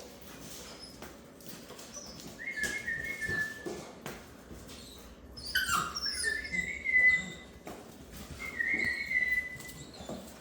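German shorthaired pointer puppies whining and yelping in three high-pitched bouts, the middle one with sharp squeals, over faint scattered clicks and scuffles.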